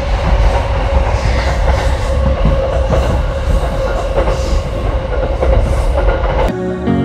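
Freight train of hopper wagons rolling along the track close by: a steady low rumble with rail clatter and a sustained whine. It cuts off sharply near the end as guitar music comes in.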